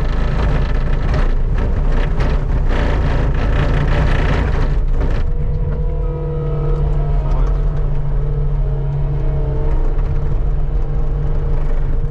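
Skid steer engine running hard while its bucket scrapes snow along the pavement, a rough grating noise for about the first five seconds. Then the scraping stops and the engine runs on with a steadier hum and a faint whine.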